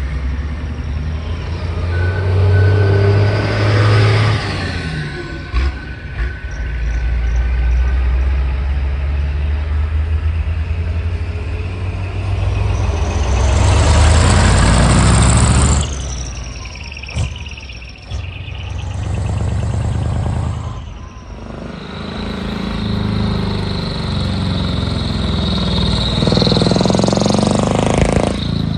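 Heavy trucks' diesel engines running and pulling away one after another, with a loud rushing swell about halfway through.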